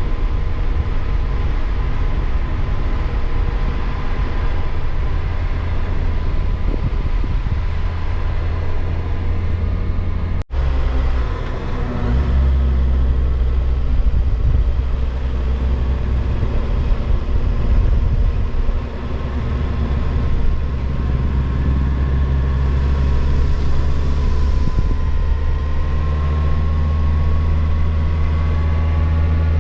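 Kawasaki Versys motorcycle engine running steadily at road speed, with heavy low rumble, likely wind on the microphone. There is a brief break about ten seconds in, and the engine note climbs gradually over the last third.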